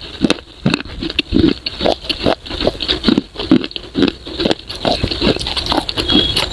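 Close-miked chewing of crunchy edible clay pieces: a quick, uneven run of crunches and bites.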